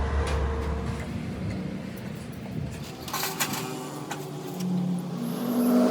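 A motor vehicle engine running, its low hum fading early and a higher, rising engine note building near the end, with a few metallic clanks about three seconds in.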